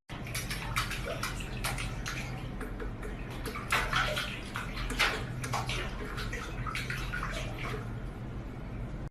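Water running and splashing, as in a filling bathtub, with a low steady hum underneath.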